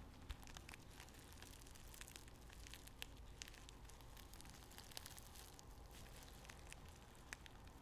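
Tea bags handled and squeezed close to the microphone: faint, irregular crackling and rustling with scattered small clicks.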